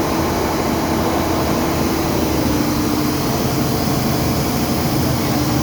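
Steady, loud machinery drone with a constant hum, from large generator engines running.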